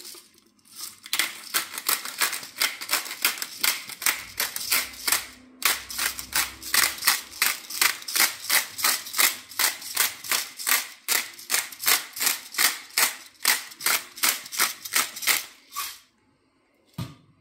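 A spice container worked over chicken pieces to season them: a long, even run of sharp, crisp strokes, about three a second, that stops about a second before the end.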